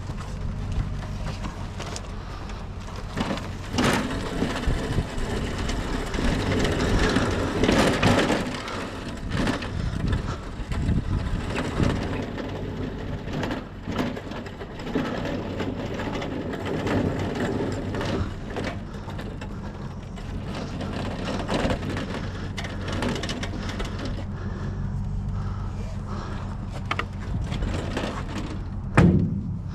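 Irregular knocking and clattering of scrap items being handled over a steady low hum, with two louder bangs just before the end.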